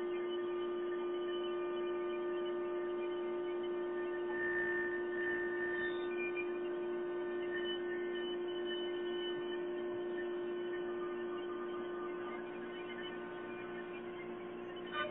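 Yimming 1325C CNC router running with a steady, even hum that holds one strong tone, without starts, stops or cutting knocks.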